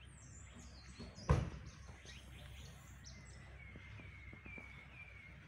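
Birds chirping, with many short falling chirps and, in the second half, a run of four descending whistled notes, over a steady low outdoor rumble. A single loud thump about a second in stands out above the rest.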